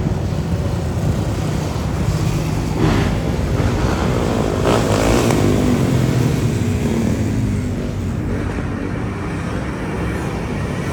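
A pack of motorcycles riding past on a city street, engines running in a dense, steady drone, with a rise and fall in pitch as bikes pass midway through.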